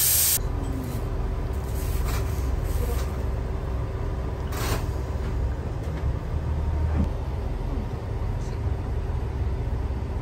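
Steady low rumble of the Tango no Umi diesel railcar heard inside its lounge car, with a few faint ticks and one brief clatter about halfway through.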